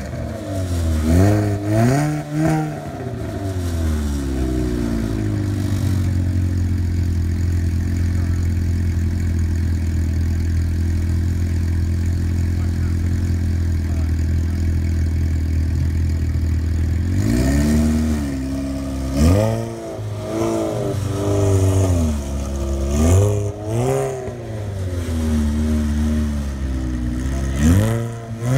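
Lotus Exige S engine and exhaust: a few quick revs, then a steady idle for about fourteen seconds, then a string of sharp throttle blips, each climbing and falling back in pitch.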